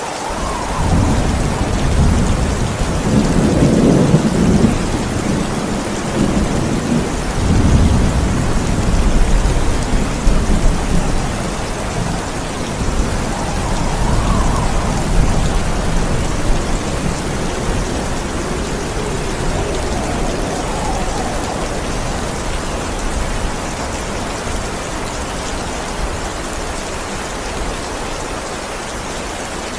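Steady heavy rain with a long roll of thunder that begins right at the start, rumbles loudest over the first ten seconds or so, and slowly dies away under the rain.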